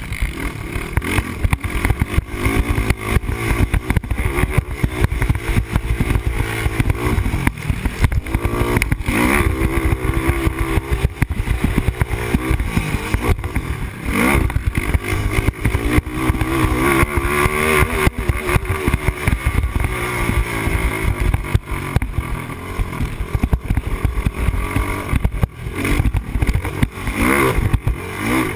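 Yamaha Raptor 250 quad's single-cylinder four-stroke engine revving up and falling off again and again as it is ridden hard around a motocross track. Wind rush and bumps on a helmet-mounted microphone run under the engine.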